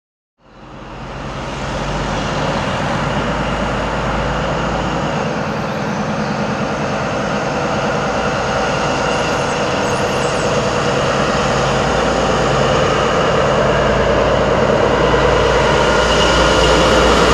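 InterCity 125 High Speed Train approaching, its Class 43 diesel power car running with rail noise from the wheels. The sound fades in at the start and grows slowly louder.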